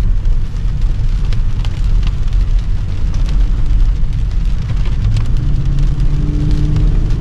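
The 5.7-litre Hemi V8 of a 2013 Dodge Charger R/T running under way on a wet road, with a hiss of rain and tyre spray. About five seconds in, the engine settles into a steady held note.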